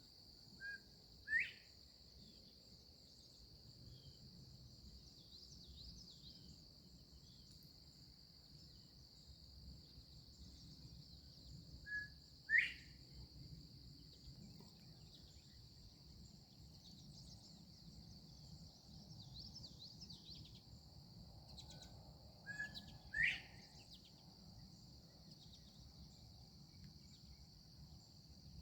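Northern bobwhite quail calling its two-note 'bob-white' three times, about ten seconds apart: a short note, then a louder rising whistle. A steady high-pitched insect buzz runs underneath.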